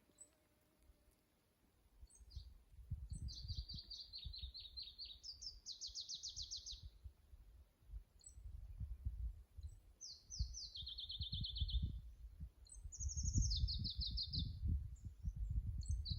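A songbird singing about four trilled phrases, each a couple of seconds of fast repeated notes that step from one pitch to another, over a low rumble that starts about two seconds in.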